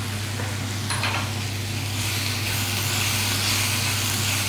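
Sliced mushrooms and bell peppers sizzling in a frying pan while being stirred with a spatula. The sizzle grows louder from about two seconds in, over a steady low hum.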